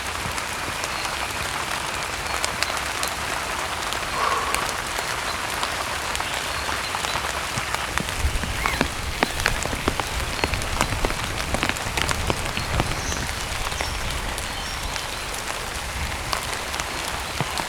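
Heavy rain falling steadily, with many single drops ticking sharply close by, thickest in the middle, over a low rumble of wind.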